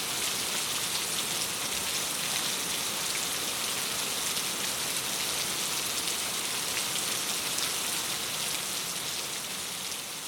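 Steady rain on a window, fading gradually over the last couple of seconds.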